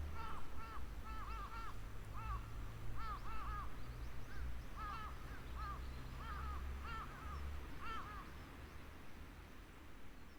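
Birds calling outdoors, many short arched calls in quick clusters, likely a flock of crows cawing, dying away about eight seconds in, over a steady low rumble.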